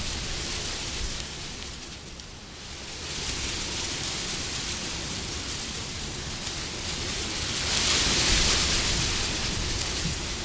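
Wind blowing in gusts: a steady rushing hiss that dips about two seconds in, then swells back up to its loudest near the end.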